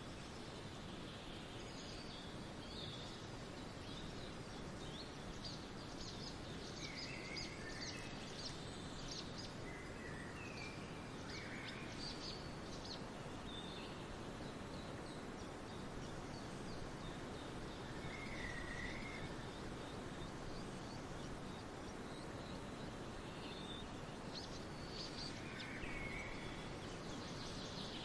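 Forest birdsong ambience: several songbirds give short, scattered chirps and calls over a steady background hiss.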